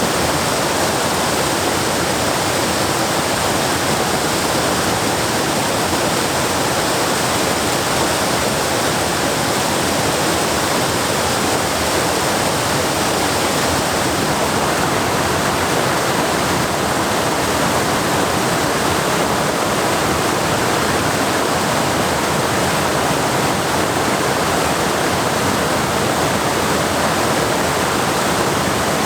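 Waterfall: water pouring over rocks in a steady, dense rush that does not change.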